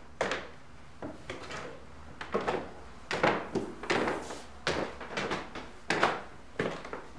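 Footsteps climbing wooden stairs: about a dozen separate steps, some in quick pairs, roughly one every half second to a second.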